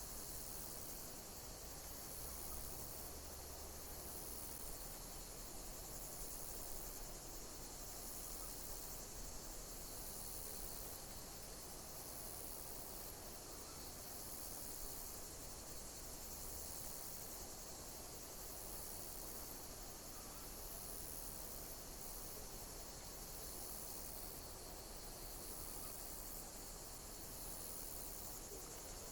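Insects chirping: high-pitched chirp phrases repeating about every two seconds over a steady high hiss.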